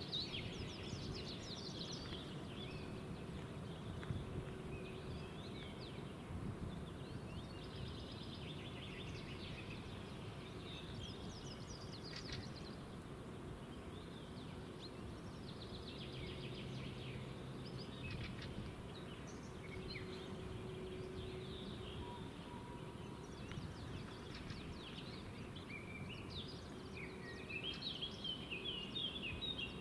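Several songbirds singing, with overlapping chirps and trills throughout and a quick run of notes near the end, over a steady low background rumble.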